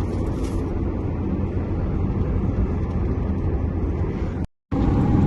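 Steady low rumble of a car travelling on the road, with a brief dropout to silence about four and a half seconds in.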